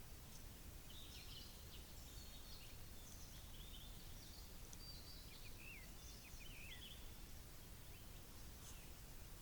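Faint chirping of small songbirds, many short calls mostly in the middle of the stretch, over a steady low background rumble.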